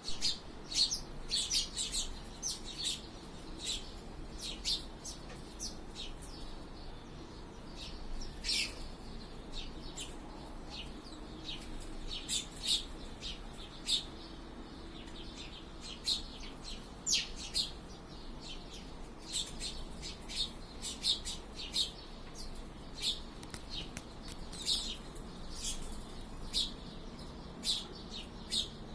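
Small birds chirping in short, sharp calls, many in quick irregular succession, as they squabble with one another.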